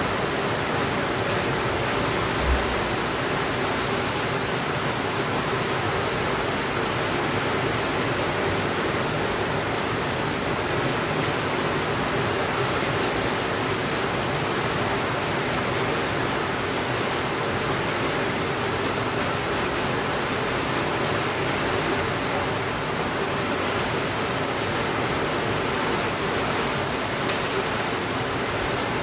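Steady rainfall, an even hiss that does not change. A single low thump comes about two and a half seconds in, and a brief sharp click near the end.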